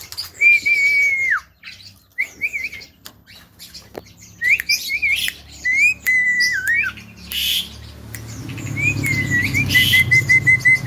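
Javan myna (jalak kebo) whistling: a long whistled note that drops away at its end, then shorter whistled phrases with a couple of harsh squawks, and near the end a quick string of short repeated whistles.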